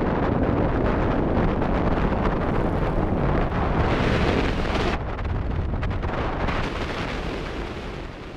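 Wind buffeting the microphone: a loud, steady rumbling rush that eases off over the last few seconds.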